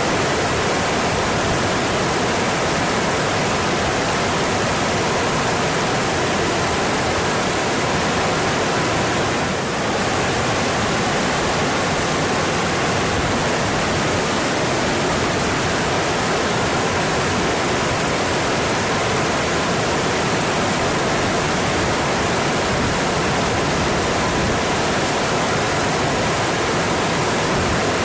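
Mountain stream rushing over rocks: a steady, dense water noise.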